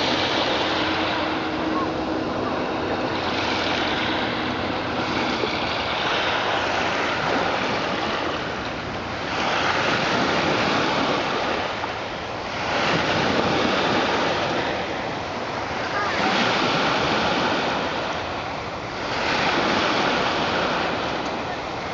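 Red Sea waves washing onto the shore, surging in and falling back about every three seconds. A steady low hum runs under them for the first five seconds or so.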